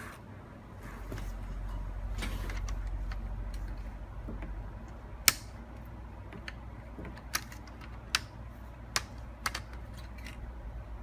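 Sharp plastic clicks and taps of an HP Pavilion G6 laptop's parts being handled and pried apart during disassembly. The loudest click comes about five seconds in, and a few more follow roughly a second apart, over a low steady hum.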